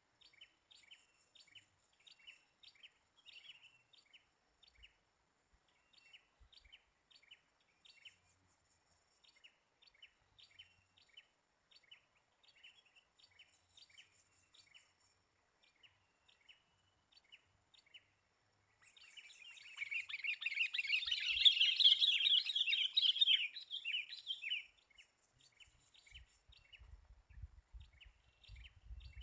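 Sooty-headed bulbuls calling, short chirps repeating over and over; for several seconds past the middle a loud, dense burst of chattering calls, followed by faint low thumps near the end.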